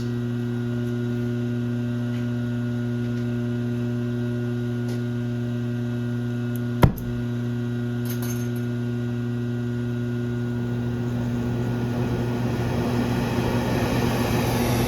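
Steady electrical hum, with one sharp click about seven seconds in, then a rushing mechanical noise that builds up over the last few seconds.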